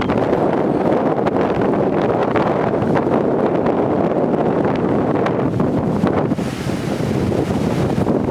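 Strong gusting wind, around 28 mph with gusts near 40 mph, buffeting the microphone as a loud, steady rushing roar. About six seconds in it dips slightly and then turns hissier.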